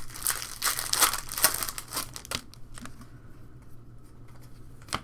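Crinkling and crumpling of a foil trading-card pack wrapper being torn open and handled, dense for the first couple of seconds, then a few faint clicks and a sharper click near the end.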